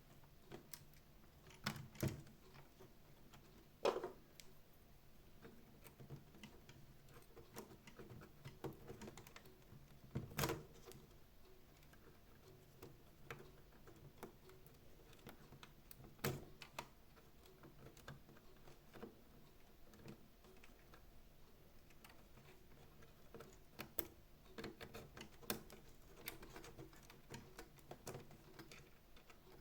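Sparse light clicks and knocks of plastic parts and small tools being handled while a robot vacuum cleaner is taken apart, with a few louder knocks spread through and quicker small ticks near the end.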